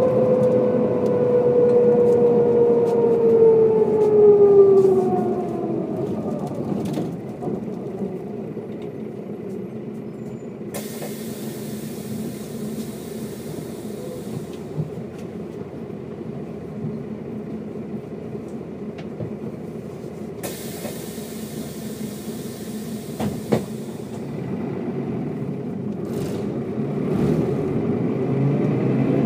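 Mercedes-Benz O407 bus drivetrain whining and falling in pitch as the bus slows over the first five seconds, then the engine running quietly at low revs with two spells of hissing air of a few seconds each. Near the end the whine rises again as the bus pulls away.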